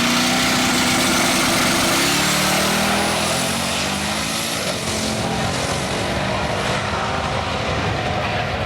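Twin-turbocharged 427 V8 of a Pontiac G8 drag car running flat out down the strip. Over the first few seconds a high turbo whistle rises above the engine note, then fades out about midway.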